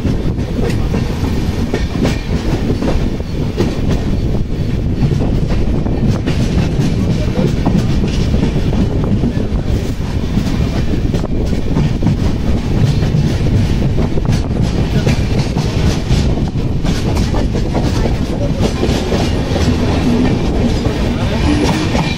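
Jan Shatabdi Express passenger train running along the track: a steady rumble of the coach, with wheels clacking over the rail joints.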